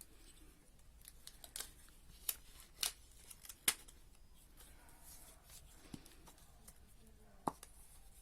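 Paper craft pieces being handled: light rustling of paper with several sharp clicks, the loudest bunched about two to four seconds in and one more near the end.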